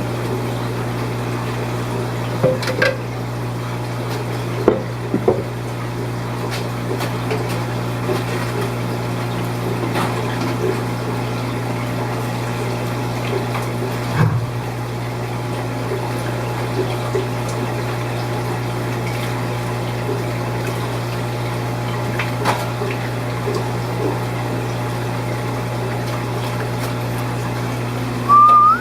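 Steady hum of aquarium pumps with running, trickling water from the tank filtration, and a few light knocks and clinks. Someone starts whistling a tune at the very end.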